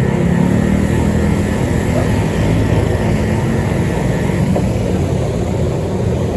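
Steady running of a motor vehicle ridden at speed: a low engine drone with road and wind noise over it, the engine pitch shifting slightly.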